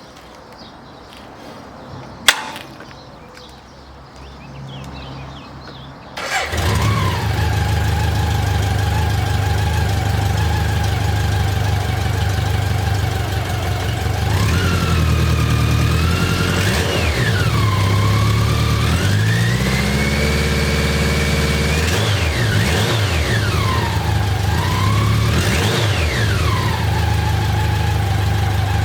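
BMW K100 RS's 987 cc inline-four on its stock exhaust, started about six seconds in after a sharp click, then settling to a steady idle. About halfway through it is revved: several quick blips and one longer held rev, each dropping back to idle.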